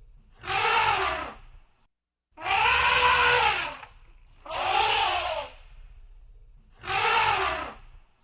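Elephant trumpeting: four loud calls about a second long, about two seconds apart, each rising and then falling in pitch.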